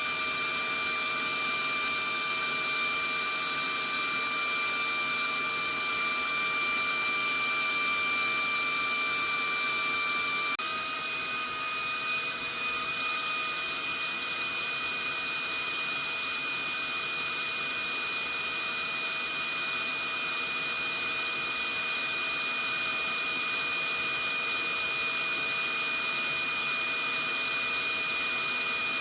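Vacuum cleaner running steadily, a constant rushing noise with a high motor whine. About ten seconds in, the whine shifts in pitch and the sound gets slightly louder, then holds steady.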